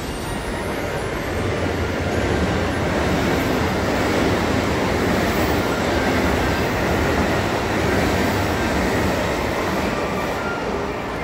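Passenger train running past on the track, a steady rush of wheel and rail noise that builds over the first couple of seconds and eases slightly near the end.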